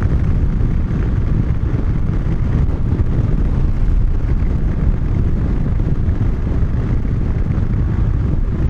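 Wind rushing and buffeting over the microphone of a motorcycle under way, with engine and road noise blended underneath as a steady low rumble.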